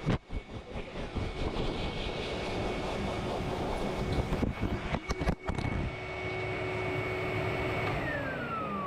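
Dog-grooming blow dryer running with a steady high whine over rushing air, a few knocks around the middle. Near the end it is switched off and the motor winds down, the whine falling steadily in pitch.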